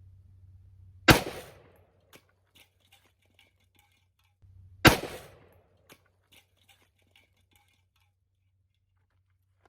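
Two gunshots about four seconds apart, each sharp report followed by a short echo and a scatter of faint ticks.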